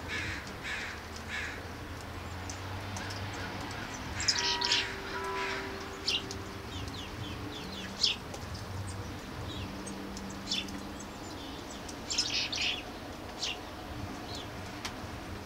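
Birds chirping in short, scattered high notes, with a couple of busier bursts of calls, over a faint low background rumble.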